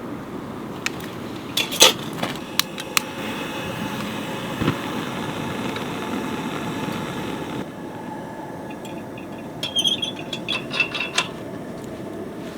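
Clicks and light clinks of camp cookware and utensils, a few around 2 to 3 seconds in and a cluster near the end, over a steady low rushing background.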